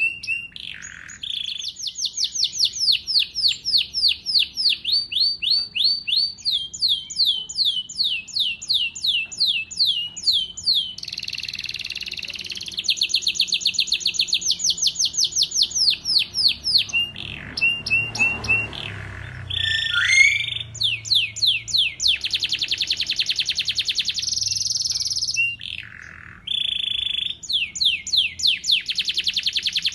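Small songbird singing long trilled phrases of rapid repeated high notes, several notes a second, with short pauses between phrases.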